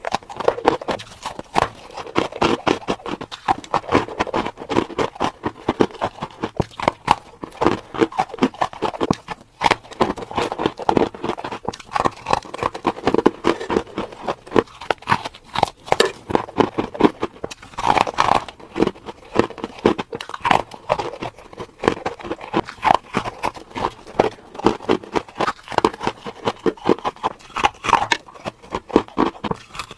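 Freezer frost ice being bitten and chewed close to the microphone: a dense, continuous run of crunches.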